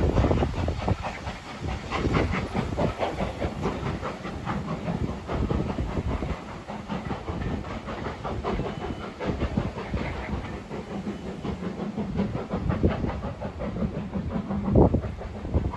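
Steam train running on the rails, with wheels clattering and knocking over the track and steam hissing, and a loud low bump near the end.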